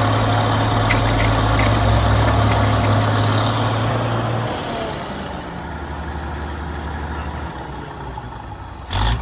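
Diesel engine of a crawler tractor running steadily, then dropping in level about four and a half seconds in, with a thin falling whine afterwards. A brief loud thump near the end.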